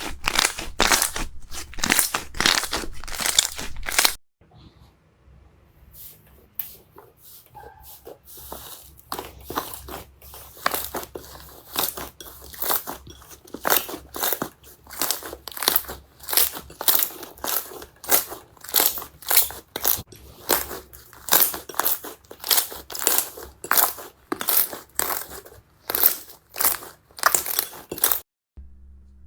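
Slime being squeezed and pressed by hand, giving rapid runs of crackling crunches, broken off briefly about four seconds in before starting again.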